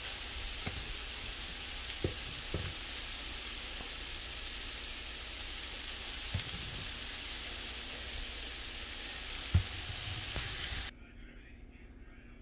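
Chicken breasts and red onion rings sizzling steadily on a hot griddle, with a few light clicks. The sizzle cuts off abruptly about eleven seconds in.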